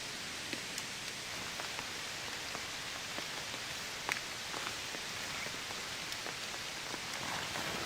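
Steady rain falling, an even hiss with scattered sharper drops ticking nearby and one louder tap about four seconds in.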